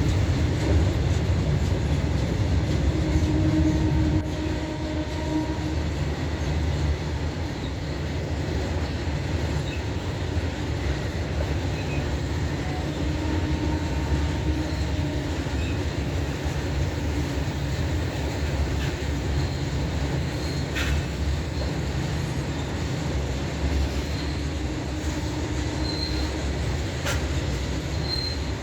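Indian Railways train rolling by with a steady low rumble, its wheels squealing now and then in short high tones. It is louder for the first four seconds, and a few sharp clicks come near the end.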